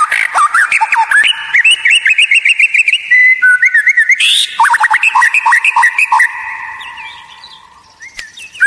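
White-rumped shama (murai batu) singing a fast, varied run of whistles, chirps and trills. The song fades out about two-thirds of the way through.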